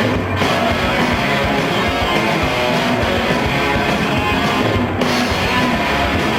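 Rock band playing live: an instrumental passage carried by guitars, loud and steady, with no singing.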